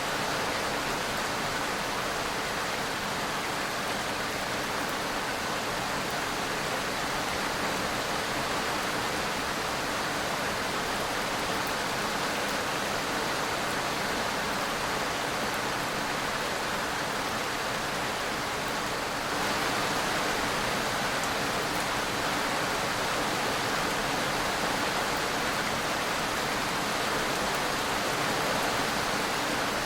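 Steady rain-like hiss, even throughout, becoming slightly louder about 19 seconds in.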